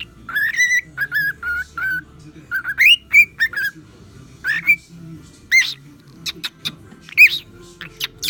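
Cockatiel whistling its song: a run of short whistled notes held near one pitch, some gliding upward, then sharper upward-swooping chirps and whistles in the second half.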